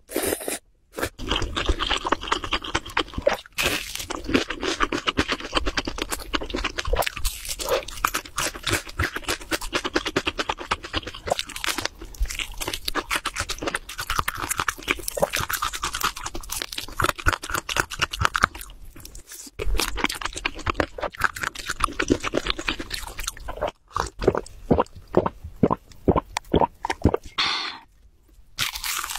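Crispy fried chicken being bitten and chewed, a dense run of crunching and crackling mouth sounds, with a short pause near the end.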